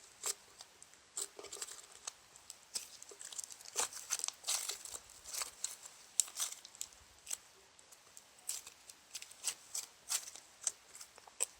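Slime being squished and pulled by hand for ASMR, with irregular short sticky pops and clicks.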